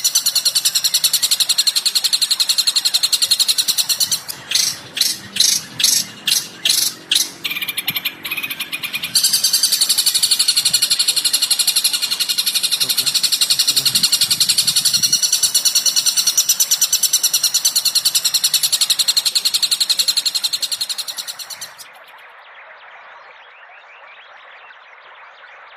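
Recorded birdsong: dense, rapid, high-pitched chirping and trilling. A few seconds in it breaks into a run of about eight separate calls, roughly two a second, then the continuous chatter returns. Near the end it fades out to a faint steady hiss.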